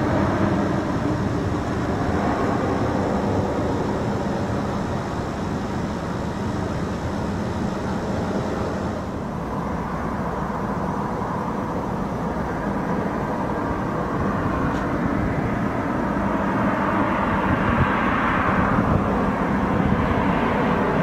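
Jet airliner engine noise in the open air, a steady rumble with a high whine that fades about halfway through. The noise then swells again near the end as the aircraft draws closer.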